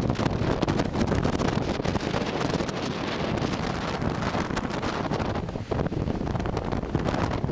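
Strong wind buffeting the camera's microphone: a loud, uneven rumble with constant gusty crackle.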